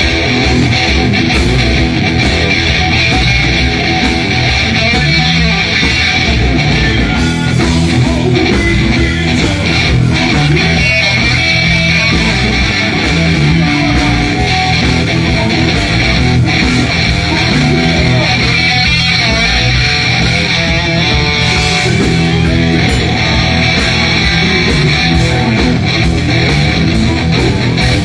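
Live blues-rock band playing an instrumental passage without vocals, led by electric guitar over bass and drums.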